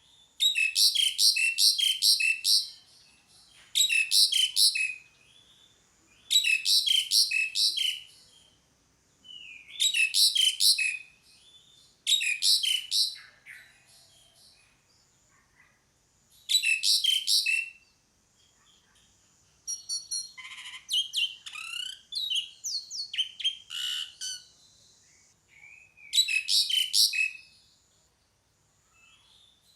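Asian pied starling calling: short bursts of rapid, repeated high notes, each about one to two seconds long, with a few seconds between them. Around two-thirds of the way through comes a longer, more varied stretch of whistles and chatter.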